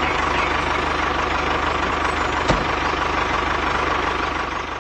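Engine running steadily with a fine, even pulse, like a tractor idling, with a single sharp click about halfway through; it fades slightly near the end.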